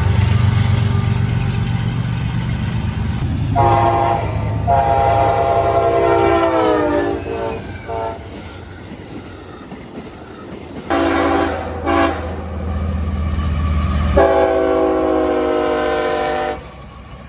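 Diesel locomotive horn sounding a sequence of blasts, two long, two short and a final long one, over the low rumble of a passing train. The pitch of the second blast sags as it ends, and the horn cuts off sharply near the end.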